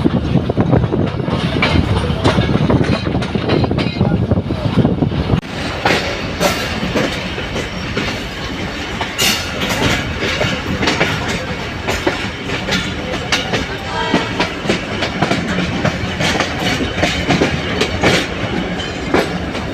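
Train running on the rails, with a continuous rumble and clatter of the wheels over the track. About five seconds in, the heavy low rumble drops away abruptly, leaving a lighter, busier clatter.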